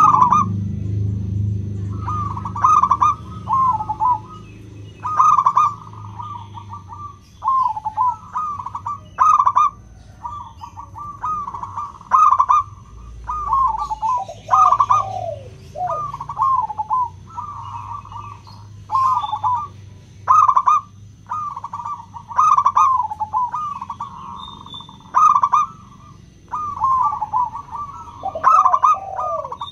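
Zebra dove (local perkutut) singing: short phrases of quick, clear coos around 1 kHz, repeated about once a second.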